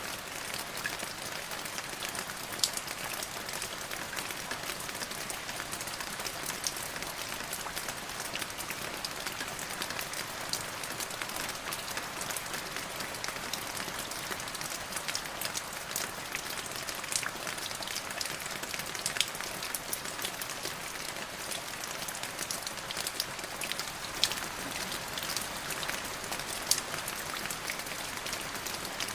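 Steady rain falling, an even hiss with many close drop hits and an occasional louder single drop.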